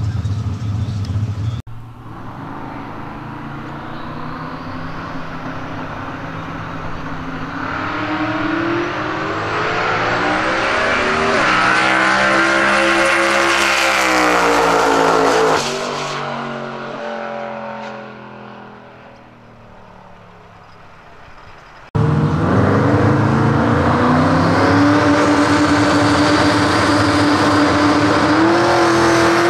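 Ford Cortina drag car's engine at full throttle on a pass down a drag strip, its pitch climbing for many seconds before the sound fades away down-track. After a sudden cut, the engine runs loud at high, steady revs, rising a little near the end.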